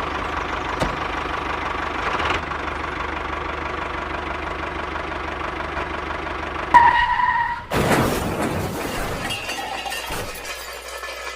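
A steady engine-like running sound with a low hum, cut off about seven seconds in by a short held tone and then a sudden loud crash-like burst.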